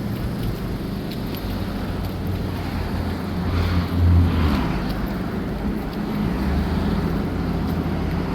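Steady low hum of a motor-vehicle engine running, growing louder for about a second near the middle.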